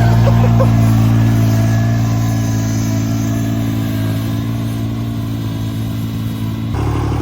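John Deere 430's three-cylinder diesel engine running steadily at a constant speed while pulling a plow. The sound changes abruptly near the end.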